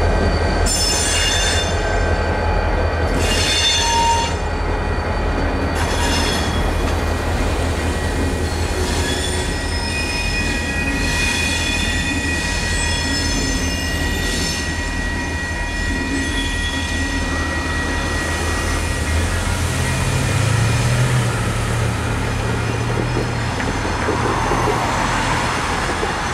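Union Pacific EMD diesel switching locomotives moving slowly away over the crossing: a steady low engine rumble with repeated high wheel squeals, one held for several seconds, while the crossing's electronic bell rings. The rumble fades about two-thirds of the way through, and near the end a car drives across.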